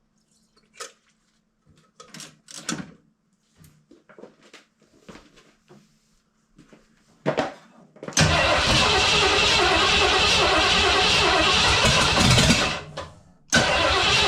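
Light clicks and handling noises, then the Ford 5.8 V8 cranking over hard on the starter for about four and a half seconds. It stops and is cranked again near the end. It is not staying running: the carburettor is getting no fuel.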